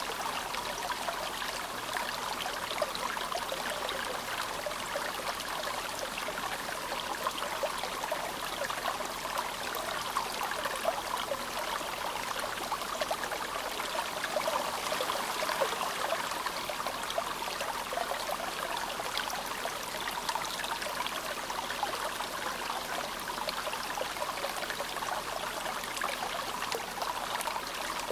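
The Azusa River, a clear snowmelt-fed mountain river, babbling steadily in its shallows: an even rush of water with small splashy flutters.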